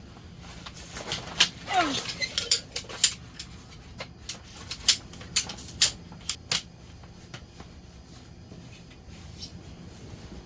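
A quick run of sharp clinks and knocks, like dishes and utensils being handled, with a brief falling squeak early on; the clatter stops after about six and a half seconds.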